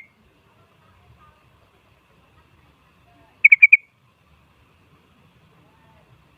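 Sooty-headed bulbul (kutilang) giving one quick phrase of four short, clear notes about halfway through.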